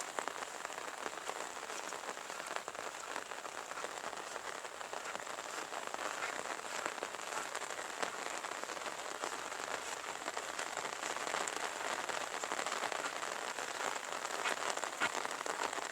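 Light, steady rain falling: an even hiss with faint scattered drop taps.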